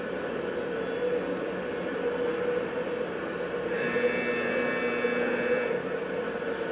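Incinerator field recording used as sound art: a steady mechanical drone with a constant hum. About four seconds in, a cluster of higher ringing tones joins for roughly two seconds, then stops.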